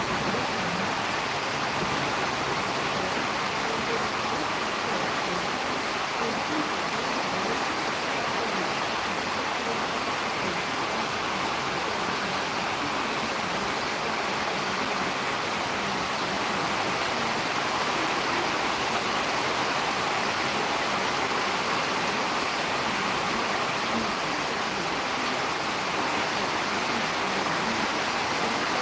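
Steady rushing noise of storm wind, a little louder from about halfway through.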